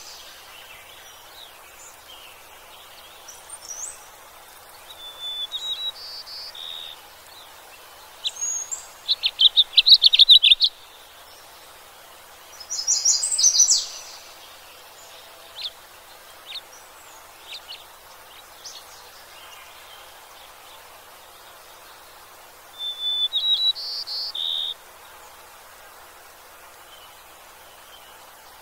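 Songbirds singing: short, high chirping phrases every few seconds over a steady faint hiss. The loudest is a rapid run of notes about ten seconds in.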